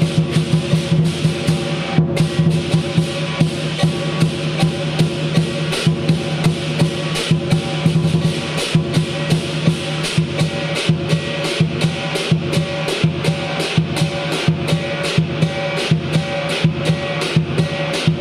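Lion dance percussion ensemble of drum, cymbals and gong playing a fast, steady beat of strikes over a ringing, sustained tone, accompanying a lion dance on poles.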